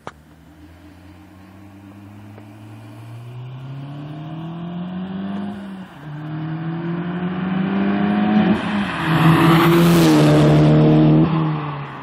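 Tuned Volkswagen Golf R, running a Revo Stage 2+ remap on 100-octane fuel, with its turbocharged four-cylinder engine accelerating hard. Its revs climb and break at gear changes about six and nine seconds in. The car is loudest as it passes close by, and the sound falls away just before the end.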